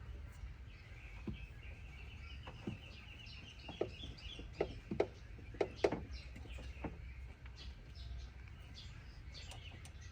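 A few sharp clicks and knocks, loudest and closest together around the middle, from hand work on the truck's carburetor. Birds chirp in the background, with a fast high trill in the first half.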